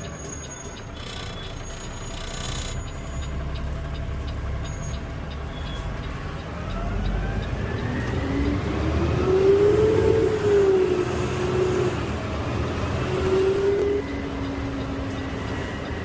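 Peterbilt 520 garbage truck's CNG engine running, then revving up in pitch about halfway through, easing back, rising again and dropping abruptly to a lower note near the end.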